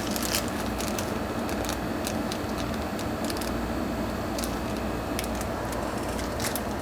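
Small parts and plastic bags from a replacement heating-element kit being handled, scattered light crinkles and clicks over a steady low background hum.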